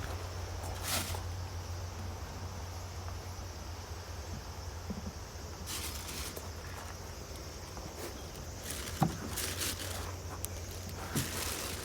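Cloth wiping the inside of a car window: a few short rubbing strokes on the glass, over a steady low hum.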